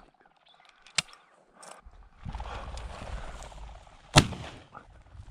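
Two sharp cracks about three seconds apart, the second much louder, with a steady rushing noise between them.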